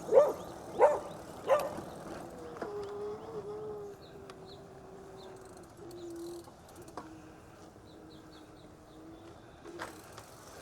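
A dog barks three times in quick succession, then lets out one long howl lasting about seven seconds, its pitch slowly falling.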